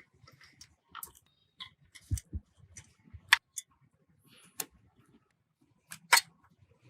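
Irregular clicks and knocks of tools and small metal parts being handled during workshop bike-restoration work. There are a couple of dull thuds about two seconds in and sharper clicks later, the loudest about halfway through.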